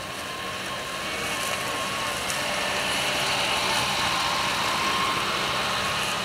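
Air-cooled Volkswagen engines of WWII-era cars, a Kübelwagen and a Beetle-bodied car, running at low speed as they drive across a field, growing steadily louder as one draws close.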